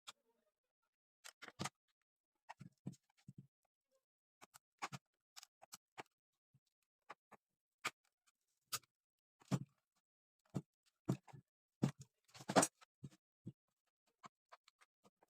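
Irregular small clicks and knocks of tools and parts being handled at a workbench, some sharp and light, some duller, with a louder cluster of knocks near the end.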